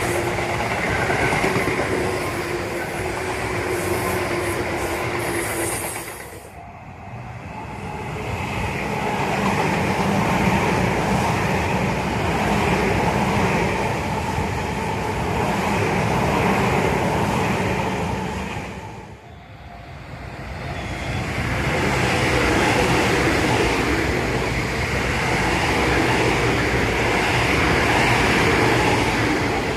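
Tobu Tojo Line electric commuter trains passing, wheels running and clattering on the rails under a steady hum. The sound comes in three long stretches, dropping sharply twice in between.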